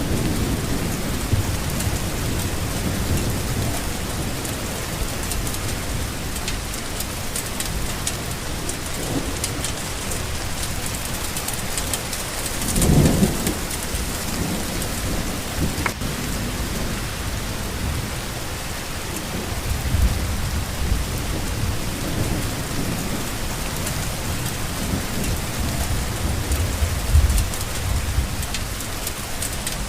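Steady rain falling, with low rolls of thunder rumbling underneath; the strongest swells come a little before halfway and twice more in the second half.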